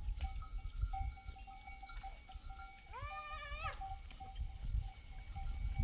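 One bleat from the flock a little past the middle, about two-thirds of a second long, rising, holding and then dropping. A livestock bell rings steadily under it.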